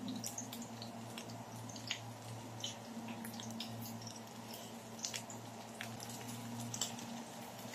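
Dulong fritters shallow-frying in oil, with scattered crackles and pops from the hot oil over a steady low hum.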